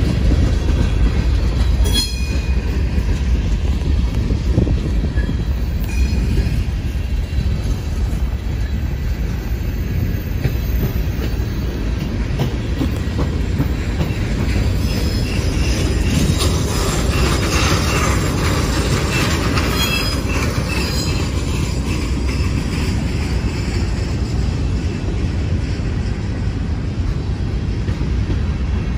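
Freight cars of a manifest train rolling past at close range: a loud, steady rumble of steel wheels on rail. Thin, high wheel squeals come through briefly about two seconds in and again around seventeen to twenty-one seconds.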